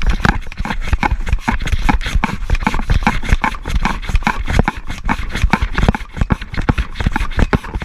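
Rain and wind battering the microphone: a dense, irregular patter of knocks over a heavy low rumble.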